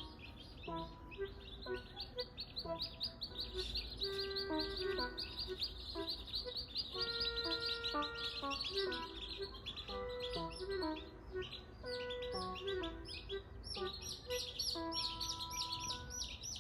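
Many young chicks peeping rapidly and continuously, busiest near the end, over light background music of short held notes.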